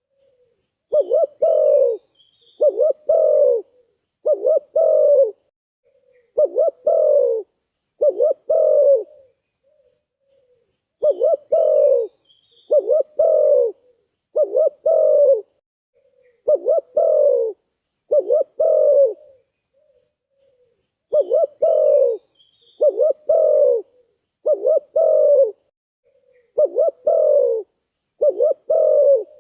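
Spotted dove cooing over and over in repeated phrases of several deep coos, each phrase followed by a short pause. Faint high chirps from a small bird can be heard in the gaps.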